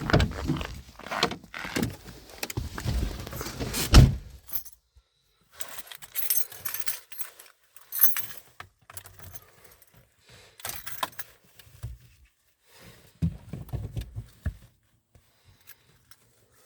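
Keys jangling and rattling, with irregular knocks and a loud thump about four seconds in, then quieter scattered clicks; no engine is running.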